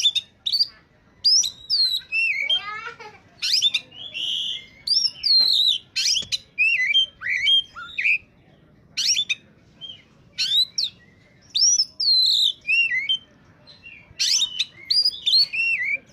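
Oriental magpie-robin (kacer) in full, vigorous song: short, rapid phrases of clear whistles sweeping up and down, one after another with brief pauses. About three seconds in there is a falling, buzzy run.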